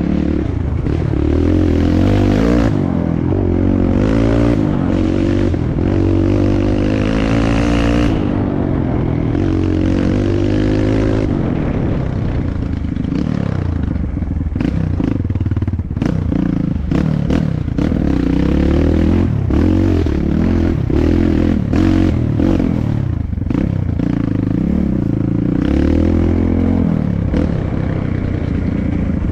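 Dirt bike engine on a trail ride, revving up and down as the throttle is worked, with frequent clattering knocks from the bike over rough ground in the second half.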